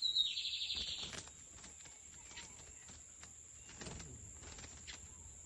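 Lined seedeater (bigodinho) singing a short, fast trill of evenly repeated high notes that stops after about a second, followed by faint scattered clicks.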